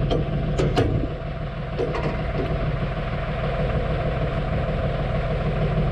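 Valmet 505 tractor's diesel engine idling steadily, with two sharp clicks shortly after the start.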